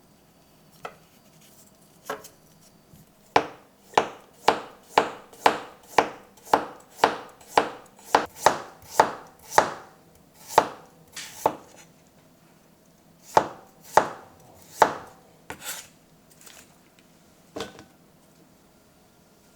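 Knife chopping on a cutting board: a steady run of sharp strokes, about two a second, then a pause and a few more strokes.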